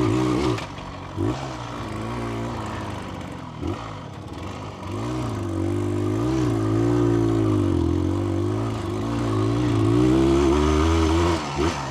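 1982 Cagiva SX 350's single-cylinder two-stroke engine under way off-road. The revs sit low for the first few seconds, then rise and waver as the throttle opens from about five seconds in. The engine is running poorly, needing carburettor tuning.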